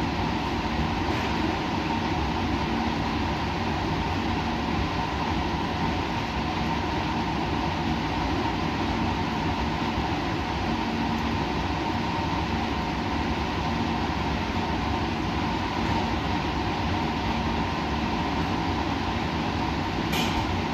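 Steady white-noise ambience: an even, rumbling noise with a faint low hum and a faint higher steady tone, and a small click near the end.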